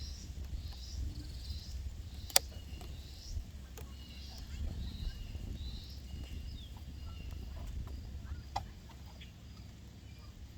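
Outdoor campsite ambience: a steady low rumble with faint bird chirps above it, broken by a few sharp clicks from items being handled, the loudest about two and a half seconds in and another near the end.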